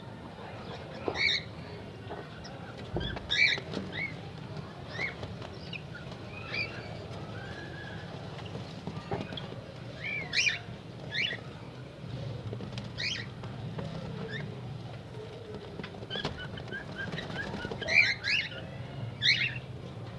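Cockatiels chirping: short high calls come a few at a time and gather most thickly near the end, over a low steady hum.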